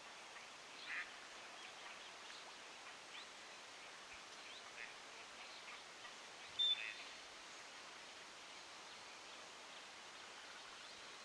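Faint outdoor background hiss with scattered short calls of small birds, two of them louder, about a second in and again about six and a half seconds in.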